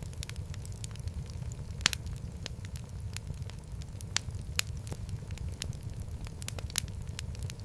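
Wood fire burning in a fireplace: a steady low rumble with frequent sharp crackles and pops, a few louder snaps standing out.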